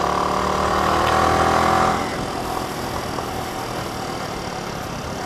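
Yamaha R15 V3's single-cylinder engine running, a little louder for about the first two seconds, then settling to a steady idle.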